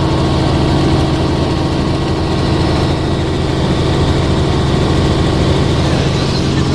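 Helicopter engine and rotor running steadily in flight: a constant low drone with a steady hum over dense noise.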